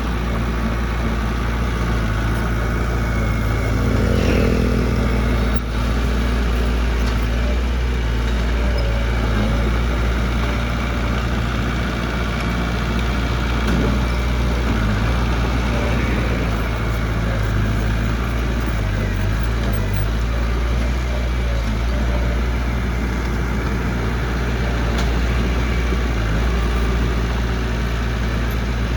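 Heavy diesel engine of an earthmoving machine running steadily, with a brief rev about four seconds in.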